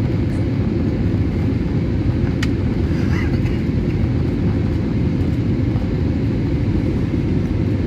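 Steady low roar inside the cabin of an Airbus A320neo airliner: engine and airflow noise, even throughout.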